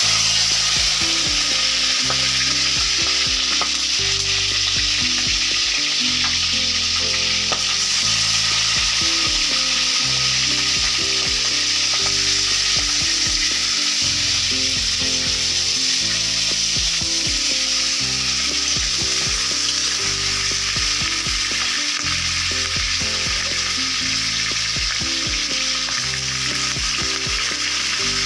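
Chicken pieces frying in hot oil in a pan, a loud steady sizzle.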